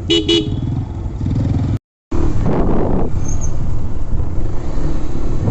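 Motorcycle engine running steadily under way, with two short tones near the start. The sound cuts out for a moment about two seconds in, then the engine rumble returns.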